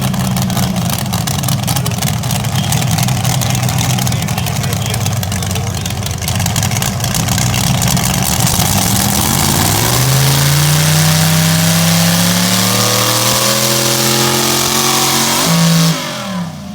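Engine of a pulling vehicle at a truck and tractor pull, running loud and steady, then revving up about nine seconds in and holding high revs with a slow climb, before dropping off sharply near the end.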